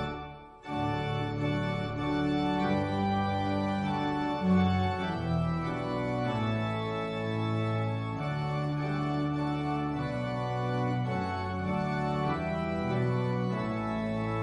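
Organ playing slow, sustained chords, a prelude-style piece. The sound breaks off briefly just after the start, then the chords resume and change every second or so.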